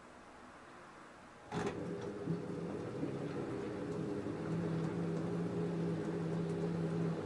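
LG F10A8HDS5 front-loading washing machine starting up again after a quiet pause: a click about one and a half seconds in, then its motor runs with a steady hum and the wash sloshes as the drum turns during the wash phase.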